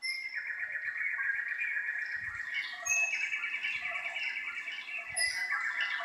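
Birdsong: fast, continuous trilling chirps with a few higher, sharper calls over them.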